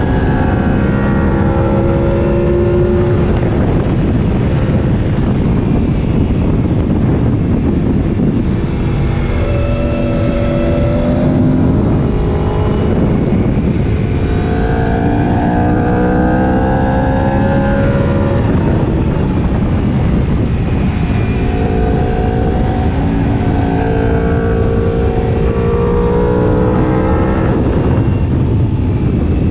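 Sport motorcycle engine accelerating hard through the gears, its pitch climbing and dropping at each upshift several times over, under heavy wind noise on the microphone at speed.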